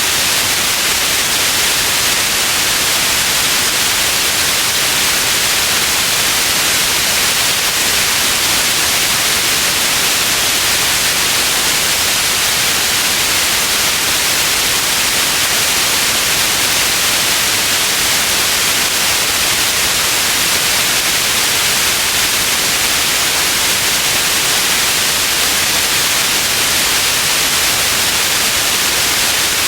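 Steady white noise: a constant, even hiss, heavier in the high end, with no changes.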